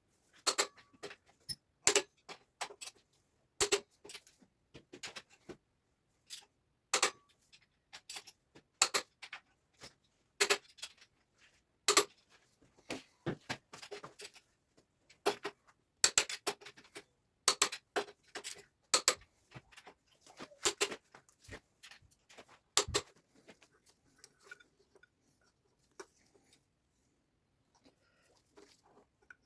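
Irregular sharp clicks and taps of metal tools and parts being handled, about one or two a second. They thin out to faint scattered sounds about 23 seconds in.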